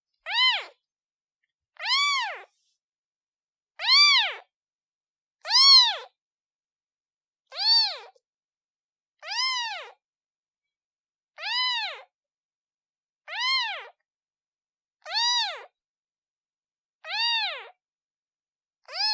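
Newborn kitten meowing over and over, calling for its mother: about eleven short high calls, each rising then falling in pitch, evenly spaced roughly two seconds apart with silence between.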